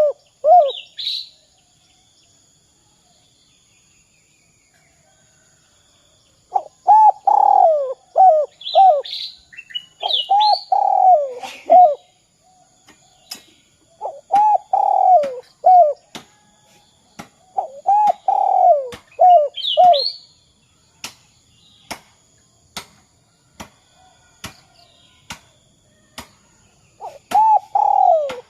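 Spotted dove cooing in repeated phrases, each a descending coo ending in two short 'kuk' notes, about five phrases with a pause of several seconds near the start. A smaller bird chirps between phrases, and a string of sharp clicks runs through the second half.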